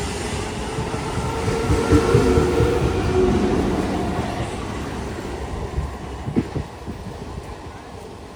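Electric multiple-unit (EMU) suburban train running past, a low rumble with its wheels clattering over the rail joints; it is loudest about two seconds in and then fades away.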